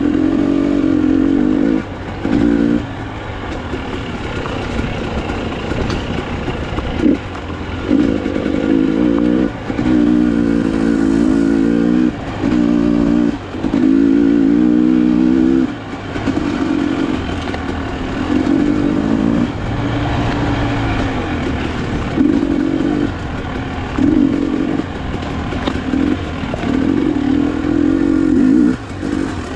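Enduro motorcycle engine with the throttle opened and closed again and again, its revs rising and falling in bursts of a second or two.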